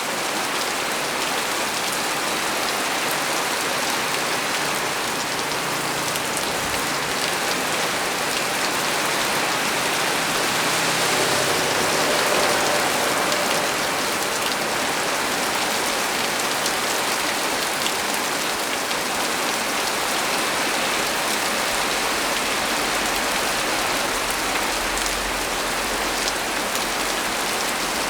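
Heavy rain falling steadily on a small tree, an even dense hiss of drops that swells a little about halfway through. A low rumble comes in near the end.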